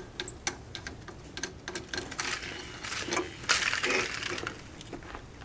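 Scattered light metallic clicks and taps, with a short scraping rustle about three and a half seconds in: small metal parts and tools being handled while opening up an old engine.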